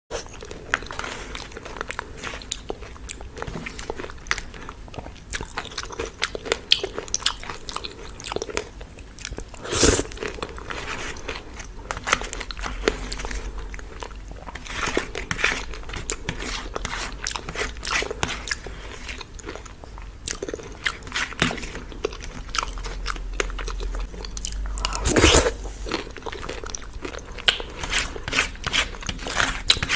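Close-miked eating of chicken curry and fried rice: steady wet chewing and biting with many small irregular clicks. Two louder, longer mouthfuls stand out, about ten seconds in and again about five seconds before the end.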